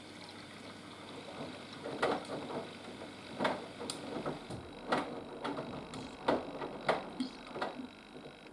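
Haier HW120 washing machine drum turning during a cotton wash, wet laundry and water sloshing and falling in a surge about every second and a half over a low steady motor hum. The tumbling stops near the end.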